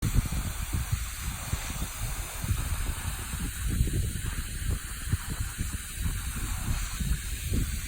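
Waterfall's steady rushing hiss of falling water, with wind buffeting the microphone in irregular low gusts.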